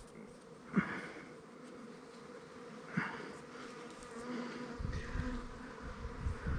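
Swarming honeybees buzzing, a steady hum, with two brief knocks along the way and a low rumble coming in near the end.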